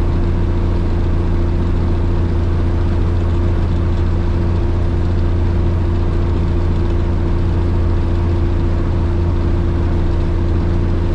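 A Cummins 855 Big Cam diesel in a Kenworth K100 cabover truck running steadily under way, heard from inside the cab as an even, unbroken drone.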